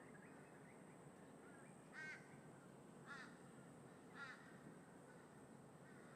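A crow cawing three times, about a second apart, over a faint steady background hiss.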